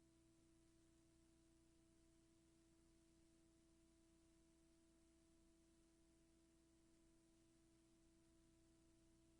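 Near silence: only a very faint, steady electrical hum.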